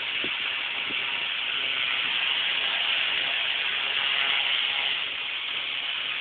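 Eskimo 10-inch electric table fan running at its single speed: a steady rush of air from the spinning blades.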